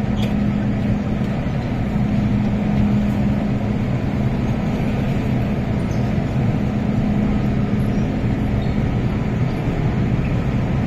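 Steady interior noise of an MTR Island Line M-Train passenger car: an even rumble with a constant low hum.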